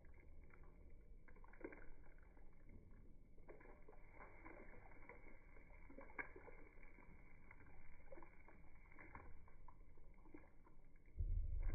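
Thick walnut and pomegranate stew simmering in a pot, with soft, irregular bubbling pops and crackles. A louder low rumble comes in near the end.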